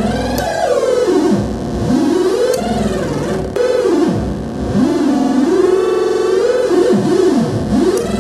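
Hand-built optical theremin noise synth playing a buzzy, warbling tone whose pitch swoops up and down in repeated deep glides, dropping very low several times. The pitch follows the light reaching its light sensor: less light, lower pitch.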